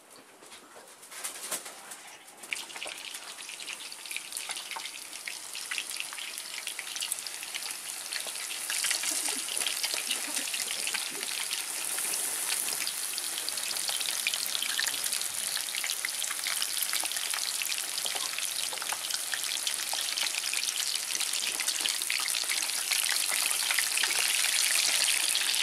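Battered shad fillets frying in hot oil in a frying pan: a dense crackling sizzle that starts faint, grows louder over the first several seconds as fillets go into the pan, then holds steady.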